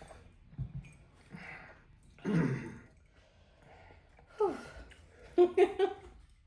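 People breathing hard through the mouth and sighing, with a falling voiced groan and a few short voiced puffs near the end: reactions to the burning heat of very spicy noodles.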